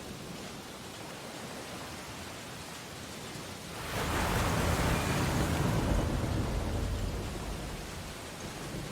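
Ocean waves on a beach: a steady wash of surf, with one wave breaking about four seconds in, loud for a few seconds, then fading back.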